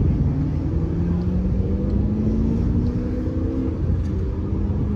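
A car engine and exhaust rumbling under acceleration, its pitch climbing steadily for a couple of seconds and then levelling off.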